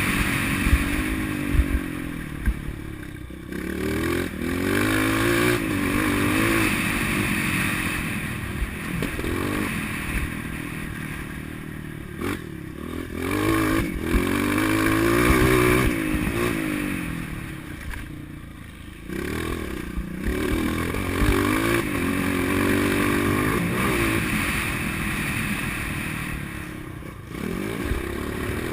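Motocross motorcycle engine being ridden hard, its pitch climbing and falling again and again as the throttle opens and shuts. Several times the engine drops away briefly as the throttle is closed, with the odd knock or rattle in between.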